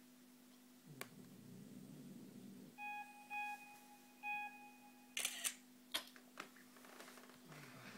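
MacBook Air photo countdown: three short beeps, then a camera-shutter sound about five seconds in as it snaps a picture. A faint click comes about a second in and two more clicks follow the shutter.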